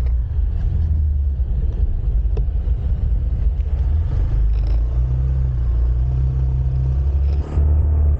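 Motorcycle engine running steadily, with a strong low rumble.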